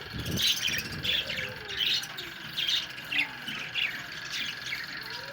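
Budgerigars chattering, a quick run of short chirps and squawks, several calls a second.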